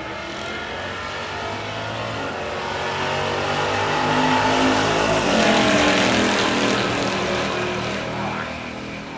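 Drag car's engine at wide-open throttle going past down the strip. The note climbs and grows louder, drops in pitch as the car passes about five seconds in, then fades away.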